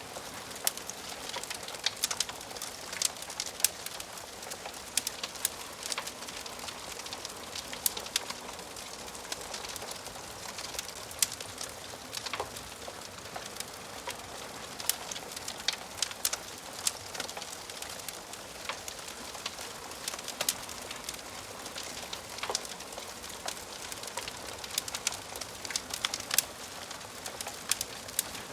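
Wood fire in a fireplace crackling: a steady hiss with frequent sharp pops and snaps.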